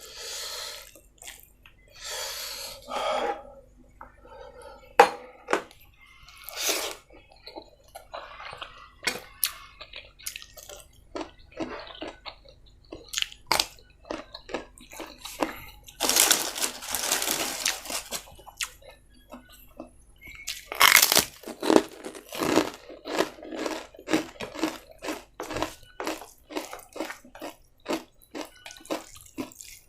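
Close-up eating sounds: chewing and crunching, with many short mouth clicks. There are two longer noisy stretches, one about sixteen seconds in lasting some two seconds and a shorter one about five seconds later.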